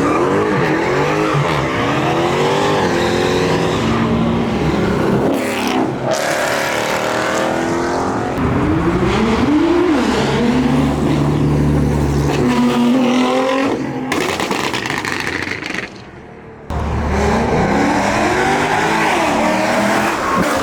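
Car engine revved hard again and again, its pitch sweeping up and falling back, held at steady high revs for a few seconds a little after halfway, with a short dip in level about three-quarters through before the revving resumes.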